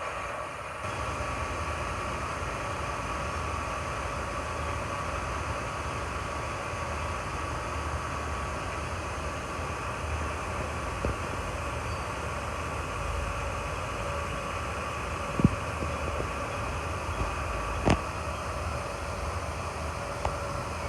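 Steady drone of a ship's machinery during unloading, a low rumble with a constant hum. A few sharp knocks or clanks break in twice, about three quarters of the way through.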